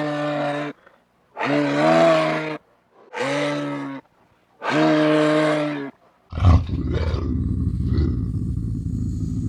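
Five drawn-out animal calls, each about a second long with short silences between. About six seconds in they give way abruptly to a low, rough, continuous growling sound.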